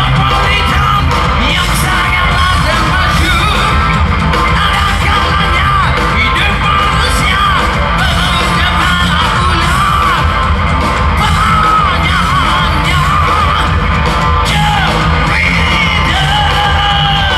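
Live rock band playing loud through a concert hall's PA, with a lead vocal sung and shouted over electric guitars, bass and drums.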